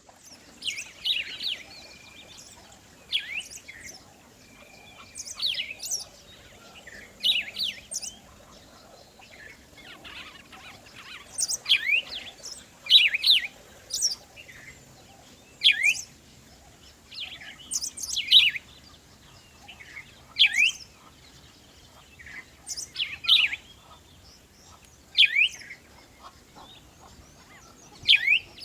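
Bird singing: short phrases of quick, sweeping high chirps, repeated about every two seconds.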